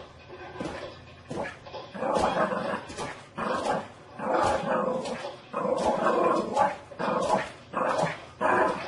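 A dog barking, about ten calls in a row at roughly one every 0.7 s, starting about two seconds in after a quieter stretch.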